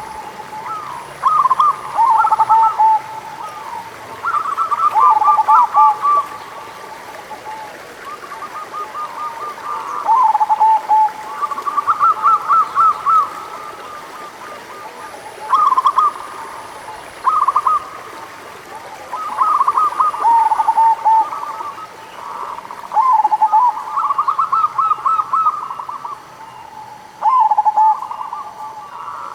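Perkutut (zebra doves) cooing: bubbling, warbling phrases repeated every few seconds, sometimes overlapping as more than one bird calls.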